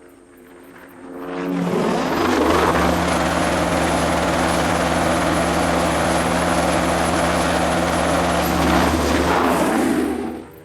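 Bell 206B-3 JetRanger III helicopter close by, its turbine whine and rotor beat loud and steady. It swells up about a second in and cuts off suddenly near the end.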